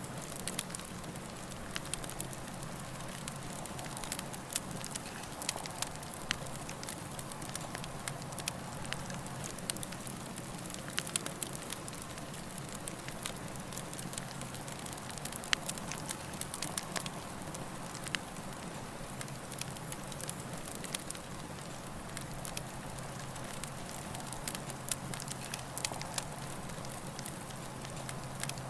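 Campfire burning with a steady hiss and frequent irregular sharp crackles and pops from the wood. A low steady hum lies underneath.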